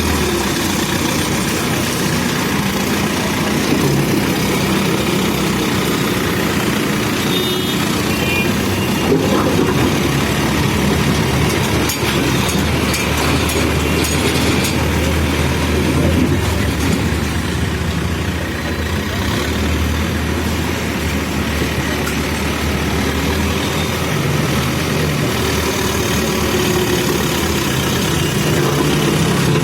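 Terex backhoe loader's diesel engine running steadily under work, its note shifting now and then in the middle and near the end.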